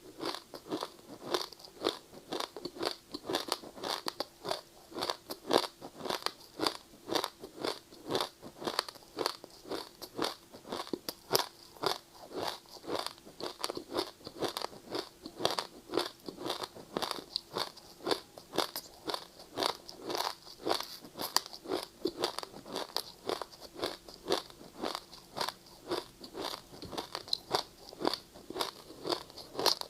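A person biting and chewing ice close to the microphone: a steady stream of crisp crunches, a few a second.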